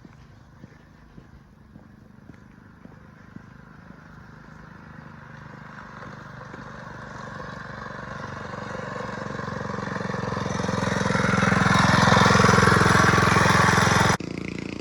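Mini bike's 79cc Predator single-cylinder four-stroke engine running at a steady full throttle, growing steadily louder as the bike approaches. It cuts off suddenly near the end.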